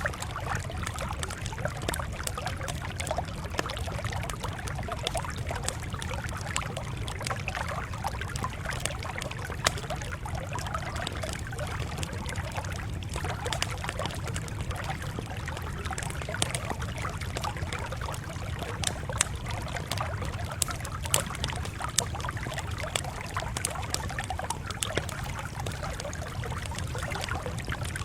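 Campfire crackling steadily, with frequent small sharp pops over a steady low background.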